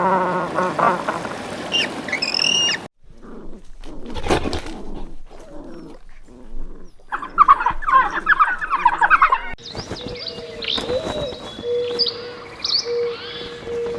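Farm birds chirping and peeping over several abruptly cut clips, opening with a wavering pitched animal call in the first second.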